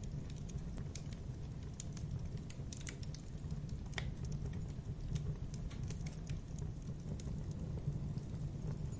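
Campfire burning: wood crackling with irregular sharp pops and ticks over a steady low sound of the flames.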